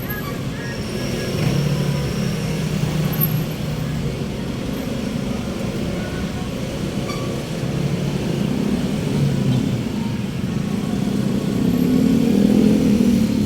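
Street traffic noise: motor vehicles running past, with a steady engine and tyre rumble that grows somewhat louder near the end.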